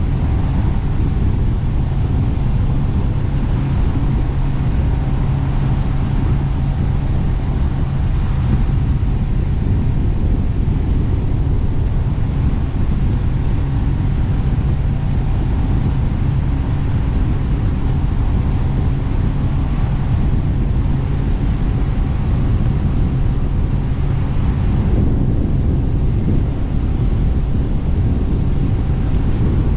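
Jet boat engine running steadily underway, a continuous low-pitched drone.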